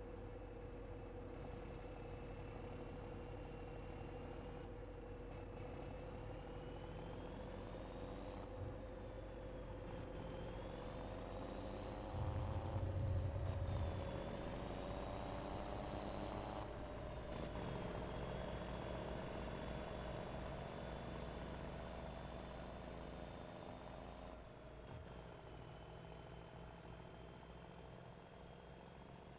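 Scania Super 540 truck's 13-litre straight-six diesel running with a straight-through exhaust: a steady drone that swells into a louder deep burst about twelve seconds in, lasting under two seconds, while a faint high whine wavers up and down in pitch.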